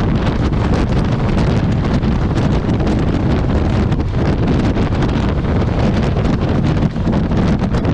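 Steady, loud wind buffeting the microphone of a motorcycle-mounted camera at highway speed, with the rumble of the motorcycle and road underneath.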